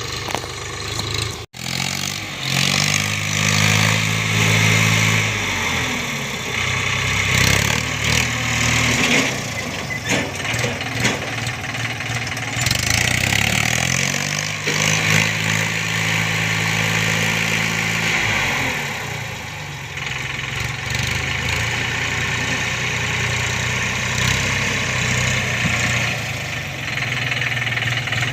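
Swaraj 963 FE tractor's three-cylinder diesel engine working in the field. Its pitch rises about two seconds in, holds, and falls back around six seconds, then does the same again from about fourteen to nineteen seconds. There is a short break in the sound about a second and a half in.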